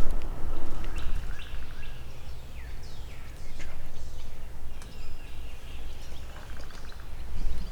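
Small songbirds calling: several quick sliding chirps and, about six seconds in, a fast trill, over a steady low rumble.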